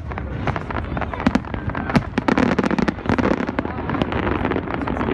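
Display fireworks going off in rapid succession: a dense string of sharp bangs and crackles.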